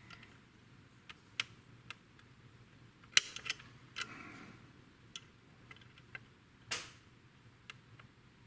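Irregular sharp clicks and taps of small plastic model-kit parts and hobby tools being handled on a workbench, the loudest about three seconds in.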